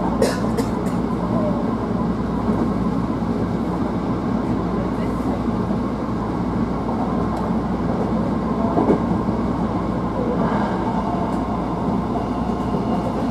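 Hankyu 1000 series electric train running, heard inside the leading car: a steady rolling and running noise, with a few sharp clicks about half a second in.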